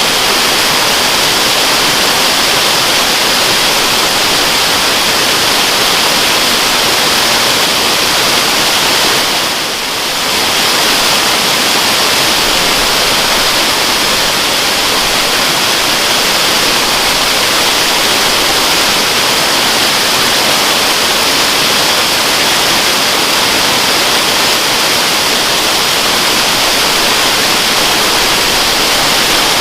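Waterfall: a steady, even rush of falling water, with a brief dip in level about ten seconds in.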